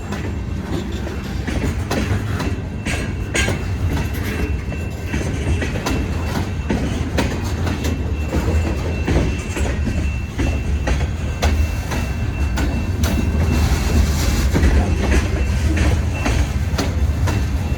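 Freight train cars rolling past, their wheels clacking over rail joints with a steady low rumble. A faint, thin wheel squeal runs through the middle, from the cars taking the curve of the wye.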